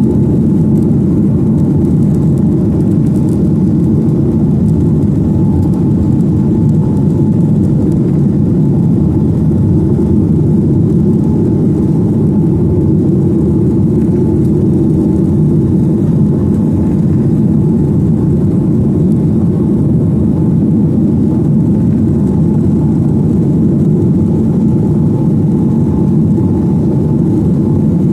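Steady engine and airflow noise of a Boeing 737-900ER in flight, heard from inside the cabin: an even low rush with a faint steady hum above it, unchanging throughout.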